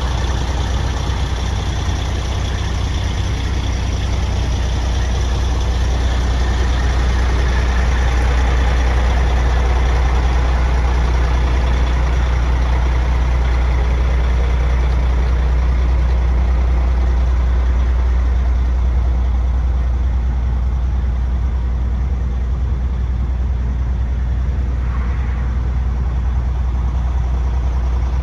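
Sterling truck's diesel engine idling steadily with a deep, even hum.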